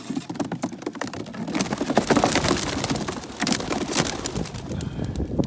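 A flock of racing pigeons bursting out of their release baskets and taking off together, a dense rapid clatter of wing claps and flapping that swells about a second and a half in.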